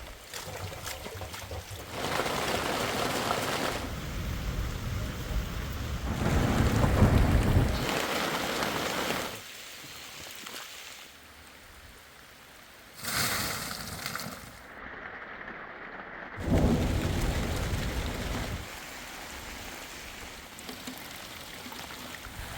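Heavy rain with thunder, in a string of short takes that change abruptly every few seconds. The loudest part is a deep thunder rumble about six to eight seconds in.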